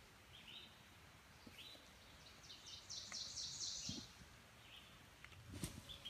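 Quiet woodland ambience with a bird calling faintly: a rapid run of short, high chirps between about two and four seconds in, and a few softer calls around it. A brief soft knock comes near the end.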